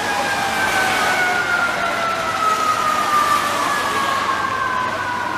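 An emergency vehicle's siren holding one long tone that slowly falls in pitch, over a steady hiss of rain and city traffic.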